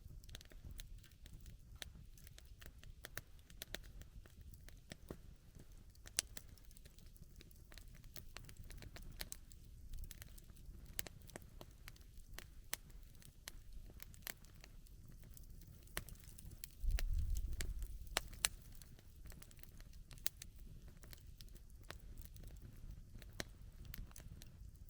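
Wood campfire crackling, with frequent sharp pops and snaps over a low rumble. About 17 seconds in, the low rumble swells louder for about a second.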